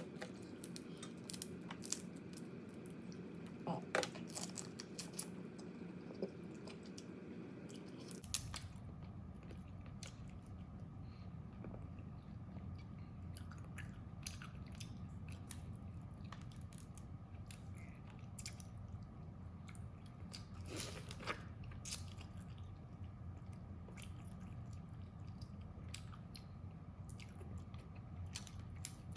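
Close-up eating sounds of crab: shells cracking and crunching between the teeth, with chewing in between, as an irregular string of sharp cracks and clicks.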